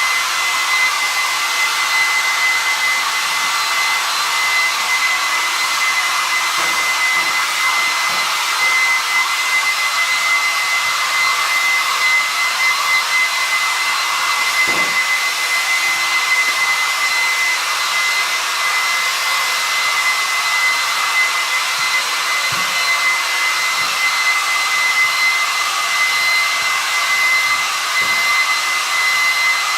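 Electric hair dryer running steadily, a constant blowing rush with a high whine from its motor.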